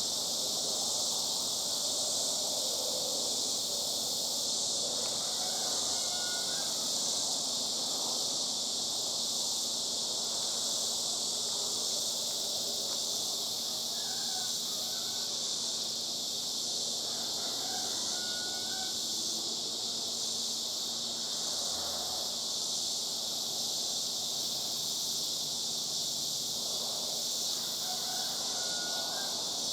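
Cicadas droning in a steady, unbroken high chorus, with a few faint short chirps now and then.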